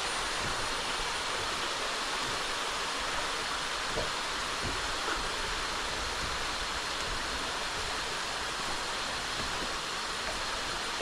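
Steady rushing of a jungle creek's flowing water, with a few faint soft knocks and a thin high tone above it.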